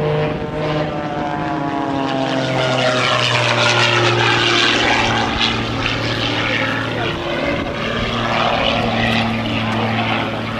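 Propeller-driven airplane flying past, its engine droning steadily, with the tone dropping in pitch over the first couple of seconds as it passes.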